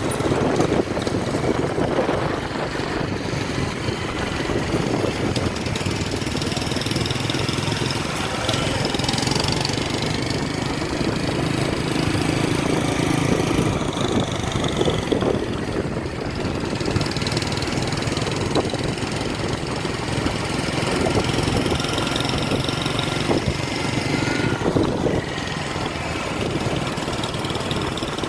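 Motor vehicle engine running steadily at low speed, a continuous hum heard from on board.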